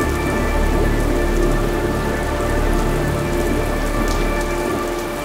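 Steady heavy rain with a low rumble of thunder underneath, slowly fading down toward the end.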